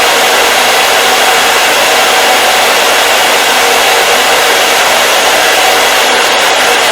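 Hair dryer running continuously at a steady speed: a loud, even rush of air with a faint steady motor hum underneath, no change in pitch or level.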